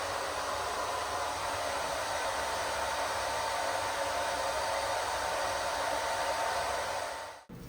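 Hair dryer running steadily, a rushing blow of air with a faint motor whine, then switched off abruptly near the end.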